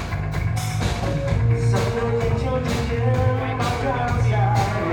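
Rock song playing: a full band with drum kit and sustained pitched melody lines, with some singing.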